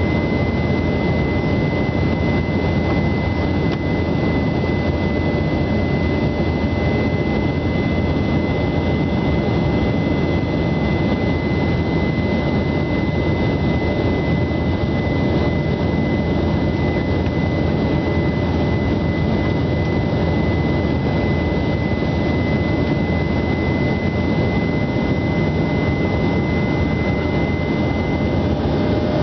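Aircraft engines running at steady power: a constant deep drone and rushing noise with a steady high-pitched whine over it.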